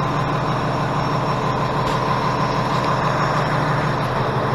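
Large truck engine running steadily, a continuous low drone.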